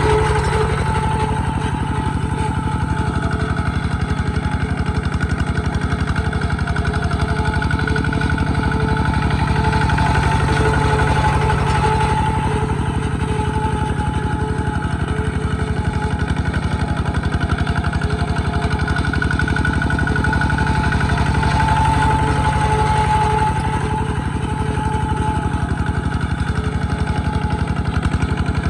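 Small Kubota tractor's engine running steadily, with a fast even firing beat; it eases slightly in level about 23 seconds in, then picks back up.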